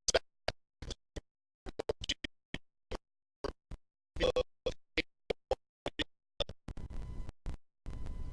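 Broken-up, stuttering audio: dozens of short snatches of sound, each a fraction of a second long, chopped off into dead silence. This is the sign of a faulty recording dropping out.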